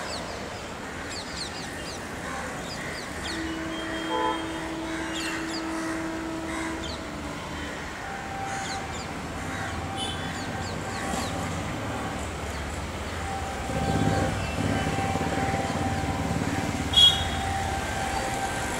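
Birds chirping over general station ambience, then, from about two-thirds of the way in, the low rumble of a WAP7 electric locomotive and its LHB coaches swelling as the train approaches. A brief steady tone sounds early on, and a short sharp sound near the end is the loudest moment.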